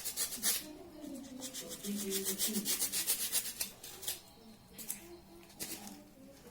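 Rapid scratchy rubbing strokes of a hand tool on a panel, in several bursts: a short one at the start, a long run from about two seconds to nearly four seconds, and a couple of brief ones near the end.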